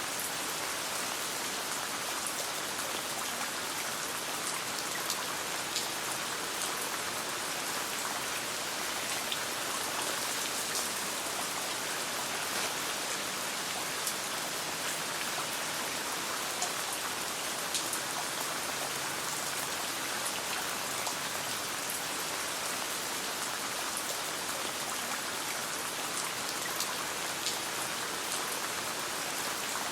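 Steady rain falling, an even hiss dotted with scattered sharp ticks throughout.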